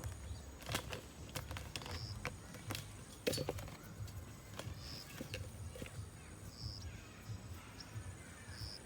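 Outdoor ambience: a low wind rumble on the microphone, scattered sharp clicks, and a short high chirp repeating every couple of seconds.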